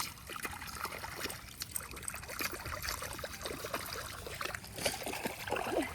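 Shallow muddy water splashing and sloshing in quick, irregular splashes.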